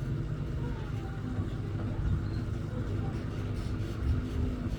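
Samsung ecobubble washing machine running, a steady low motor hum from the turning drum.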